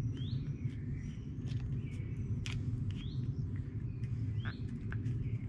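A bird chirping, a short rising chirp about every second and a half, over a steady low hum, with a few sharp clicks.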